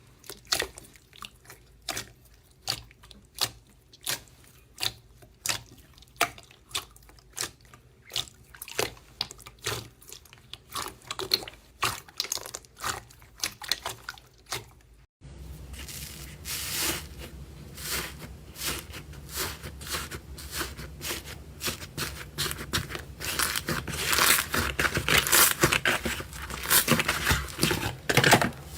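Slime being squeezed and pressed by hand, making a series of sticky clicks and pops about one or two a second. About halfway through it changes abruptly to a denser run of crackling pops over a louder background.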